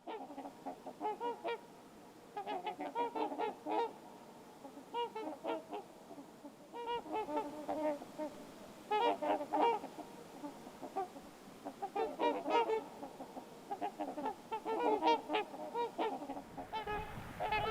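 Several trumpeter swans calling: short, horn-like honks in overlapping clusters, a new burst every second or two. A low rumble comes in near the end.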